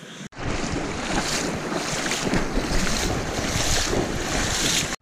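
Wind buffeting the microphone, a loud rumbling rush that swells and eases in gusts; it cuts in abruptly just after the start and cuts off abruptly at the end.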